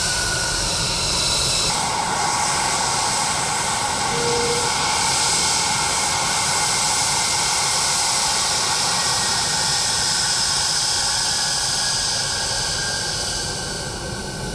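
Twin Pratt & Whitney F119 turbofan engines of an F-22 Raptor running loud and steady: a jet roar with high whining tones that change about two seconds in.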